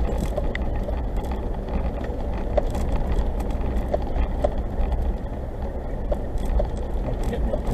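Steady low rumble of a third-generation Suzuki Jimny driving, heard from inside its cabin, with scattered small clicks and rattles.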